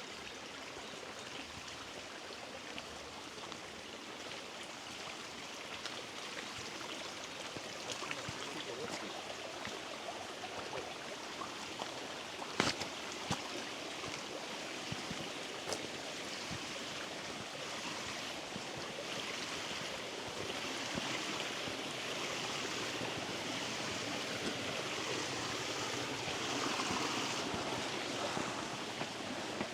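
Rushing water of a mountain stream, a steady hiss that grows louder in the second half, with a couple of sharp taps about halfway through.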